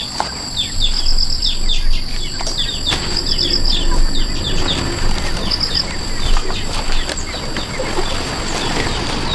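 Birds chirping over and over, with many short falling chirps and several quick trilled runs of notes, over a steady high-pitched insect drone.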